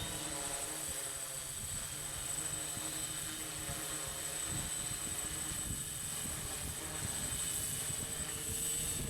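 Six-rotor drone's electric motors and 14-inch propellers buzzing steadily as it is flown in to land in strong gusty wind, with the wind buffeting the microphone in low, uneven rumbles.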